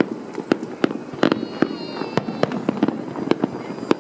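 Fireworks display: sharp bangs of bursting shells in quick, irregular succession, several a second, over a steady low rumble.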